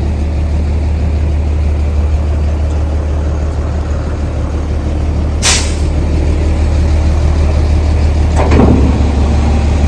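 A vehicle engine running steadily with a loud low hum, with a sharp click about halfway through and a short sound falling in pitch near the end.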